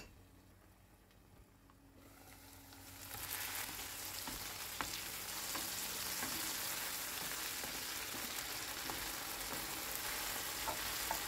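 Diced potatoes sizzling in oil and butter in a frying pan while being stirred with a wooden spatula. Nearly quiet for the first two seconds, then the sizzle swells in and holds steady, with an occasional light tap.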